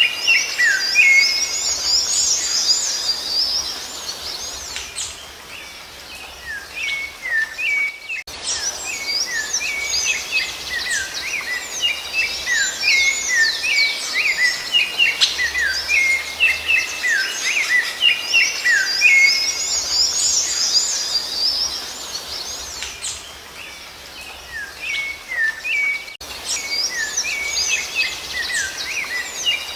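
Rufous-bellied thrush (sabiá-laranjeira) singing, with dense runs of varied whistled phrases and rapid high chirping notes. The song eases off twice into quieter stretches before picking up again.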